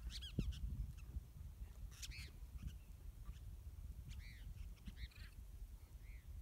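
Birds calling outdoors: about six short, high, arched calls spread across a few seconds, the loudest about two seconds in, over a low steady rumble.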